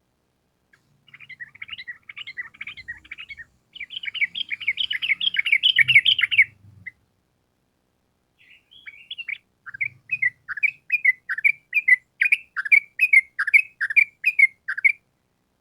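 Yellow-vented bulbul (trucukan) singing. A fast, jumbled run of chirping notes builds to its loudest about six seconds in. After a short pause comes a long string of rapid repeated notes, about three a second.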